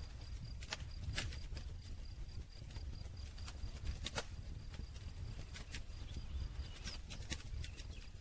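Wood campfire crackling: irregular sharp pops and snaps, a few of them louder, over a low steady rumble of the burning fire.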